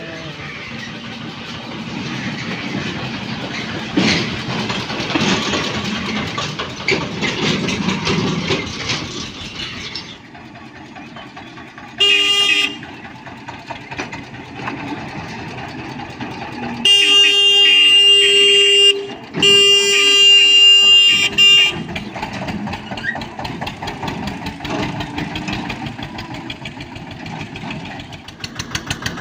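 Eicher 242 tractor's diesel engine running, with a vehicle horn sounding over it: one short toot, then two long blasts of about two seconds each, the horn the loudest thing heard.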